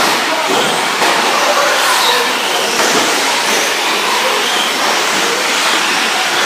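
A pack of 1/10-scale electric 4WD short course RC trucks racing on a dirt track. Their motors whine steadily in shifting pitches over a constant rush of gear and tyre noise.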